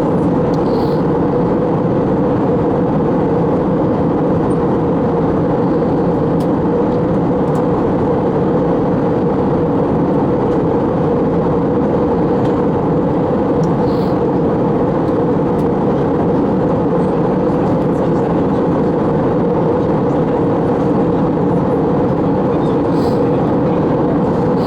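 Steady cabin noise of an Airbus A321 in flight: a constant rush of engine and airflow noise with a steady hum in it. A few faint ticks sound on top.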